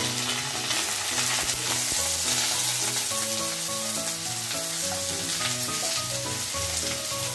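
Sliced onions and green chillies sizzling in hot oil in a kadhai, stirred with a spatula, a steady frying hiss. Background music with a melody plays underneath.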